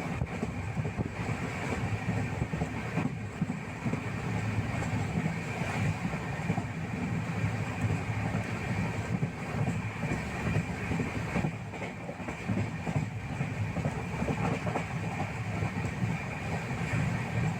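A steady low rumbling noise that runs on evenly, with no distinct knocks or changes in pitch.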